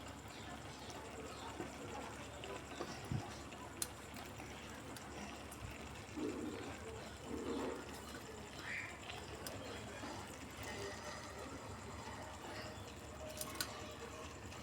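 Faint liquid sounds with a few light ticks.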